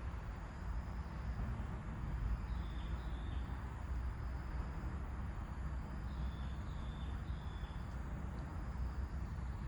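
Wind rumbling steadily over the microphone, with small birds giving short, slightly falling chirps: a pair about three seconds in and three more between six and eight seconds.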